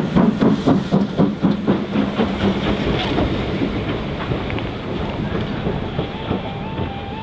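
Steam locomotive passing and drawing away, its exhaust beats at about three to four a second fading over the first few seconds into the steady rumble of the train running on the rails.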